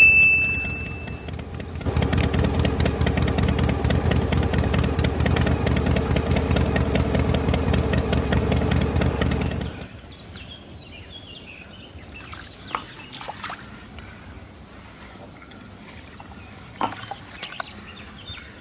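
Engine of a dirt-hauling truck running loudly from about two seconds in, then cutting off about ten seconds in. A brief high beep comes at the very start, and faint chirps and clicks follow the engine's stop.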